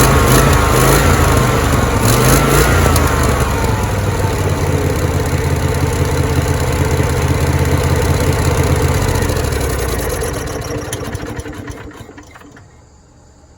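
Small engine of a floor buffer running steadily with a brief shift in pitch early on, then shutting off about ten seconds in and winding down to quiet. It runs on its newly installed fuel regulator and solenoid.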